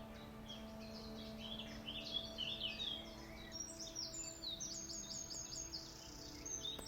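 Several songbirds calling and singing in woodland: short high chirps and quick runs of falling notes, busiest from about two seconds in.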